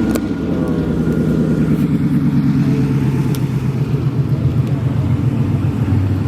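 Car engine with a loud exhaust running close by, its pulsing note slowly falling in pitch as the revs come down.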